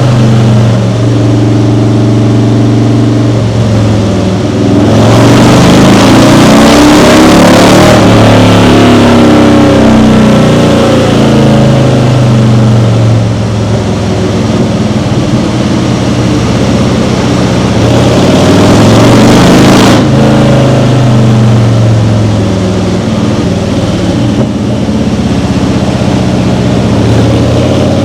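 Harley-Davidson Milwaukee-Eight 107 V-twin running through an SP Concepts Turnpike full-length exhaust, dyno-tuned. The throttle opens harder twice, about five seconds in for three seconds and again around eighteen seconds in, with the engine note swelling louder each time before settling back.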